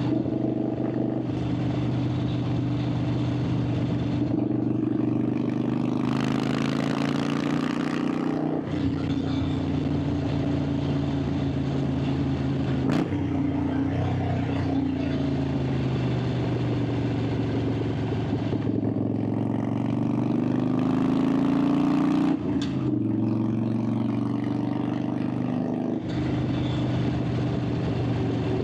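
Harley-Davidson Sportster 883's air-cooled V-twin running under way, heard from onboard, its exhaust note stepping up and down in pitch several times as the throttle and gears change. A long climb in pitch under acceleration drops off sharply about three quarters of the way through, and there is a single sharp click near the middle.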